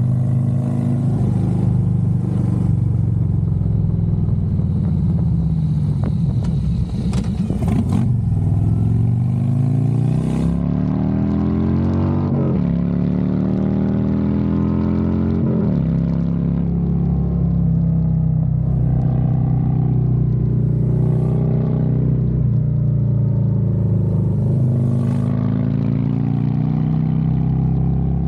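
Harley-Davidson Road Glide's V-twin engine under way, climbing in pitch as it accelerates through the gears, with drops at the upshifts about 12 and 15 seconds in, then running more steadily at cruise. There is a brief clatter about seven seconds in, and wind rushes over the microphone during the first part.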